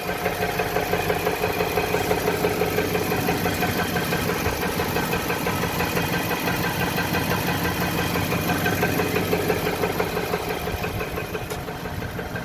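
2018 Nissan engine idling in drive, held against the parking brake, with a rapid, even knocking that the owner takes for engine knock.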